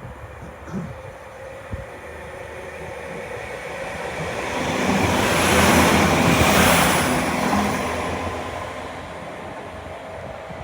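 Northern Class 195 diesel multiple unit passing close by: its diesel engines and the rush of wheels on rail swell to a peak about six seconds in, then fade away.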